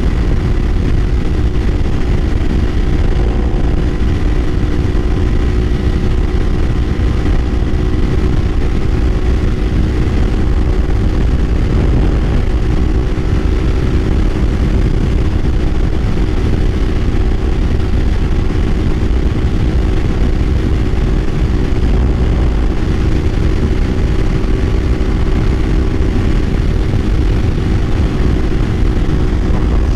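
Kawasaki Ninja 500's parallel-twin engine running at a steady cruising speed, its pitch holding level, under a constant rush of wind and road noise.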